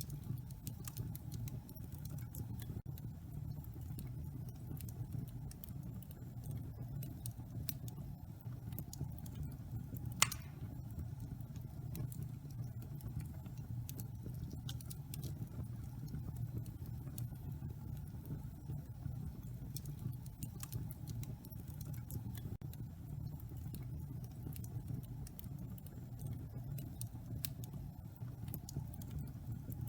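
Wood fire burning in a fireplace: a steady low rumble with frequent small crackles, and one louder pop about ten seconds in.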